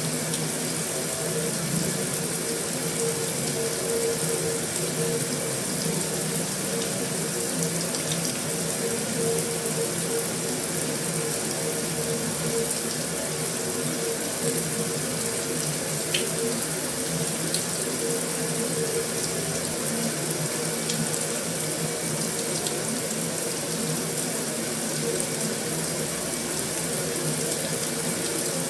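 Heavy rain falling steadily on a metal roof: an even, unbroken hiss with a few faint drop ticks.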